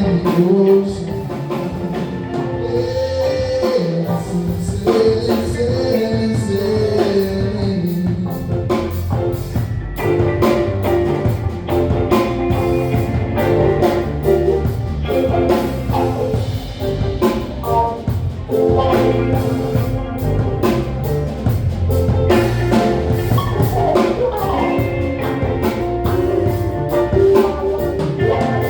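Live band music with a drum kit keeping a steady beat under melodic instruments.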